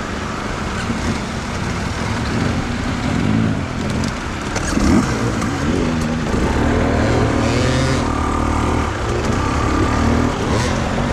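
Enduro motorcycle engine revving up and down over rough ground, with a sharp blip of the throttle about five seconds in and a longer held rev after that.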